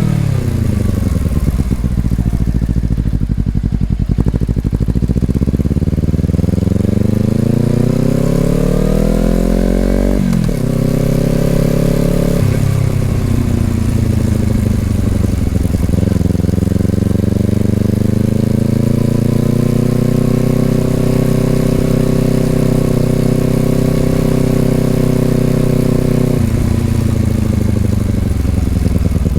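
2020 Honda CBR250RR's parallel-twin engine through an aftermarket Over Racing exhaust, on the move. The note falls as the bike slows, climbs under throttle, drops sharply twice with gear changes, rises again to a steady cruise, then drops suddenly near the end.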